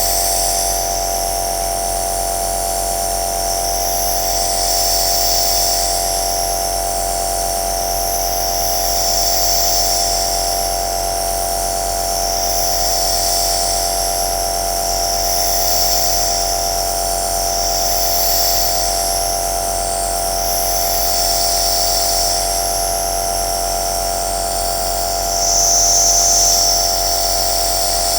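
Compressor nebulizer running steadily, its motor humming at a fixed pitch under the hiss of the mist nozzle. The hiss swells and fades gently about every four seconds.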